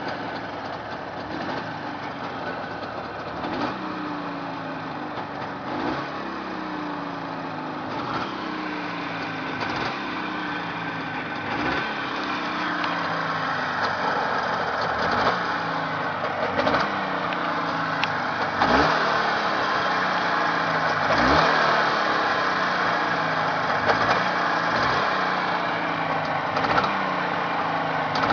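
Jawa 638 350 cc two-stroke twin motorcycle engine, warm, revved in repeated short throttle blips about every two seconds, each rising sharply and falling back toward idle. It is a freshly rebuilt engine on a test run, running as it should.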